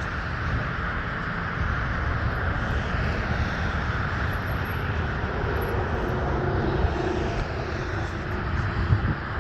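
A jet aircraft passing overhead: a steady rushing noise over a low rumble, with a faint whine that shifts in pitch about halfway through.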